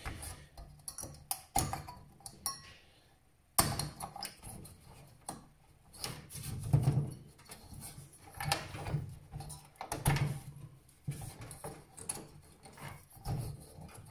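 Irregular clicks, taps and short scrapes of hands working on a desktop PC's internals, loosening the CPU cooler, with a sharper knock about three and a half seconds in.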